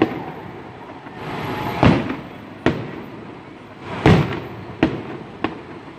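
Aerial firework shells bursting in a public display: about five sharp bangs at irregular intervals, the loudest about four seconds in, with a continuous rumble between them.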